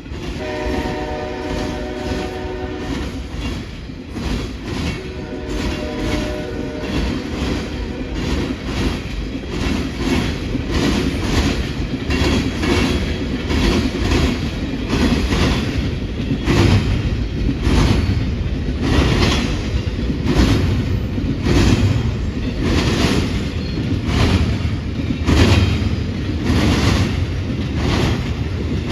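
Intermodal freight train sounding two long horn blasts, then its wheels clacking over a railroad diamond crossing in a steady run of sharp hits that grow louder.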